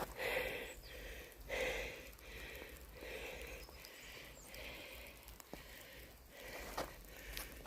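A person's audible breathing, a run of soft breaths about a second apart, while walking.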